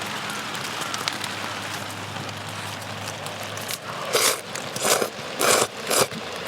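Steady rain hiss, with four loud, short crunching sounds close together in the second half.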